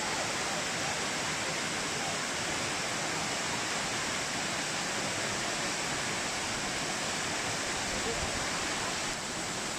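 Waterfall rushing steadily, a constant wash of falling and splashing water.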